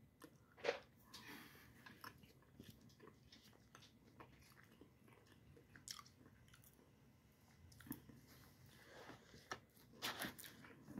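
Faint chewing and soft mouth sounds of a person eating a biscuit topped with cream, with a few light clicks.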